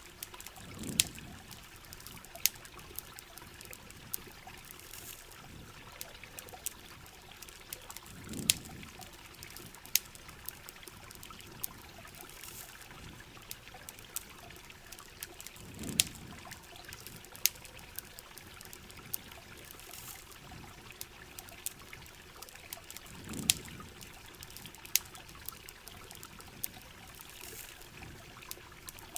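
Steady rain and trickling water with sharp crackles and pops of a wood campfire. A low swell comes back about every seven and a half seconds.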